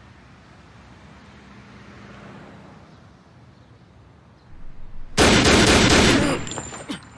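A loud burst of gunfire sound effect about five seconds in, lasting about a second and tailing off over the next second, after a low steady background.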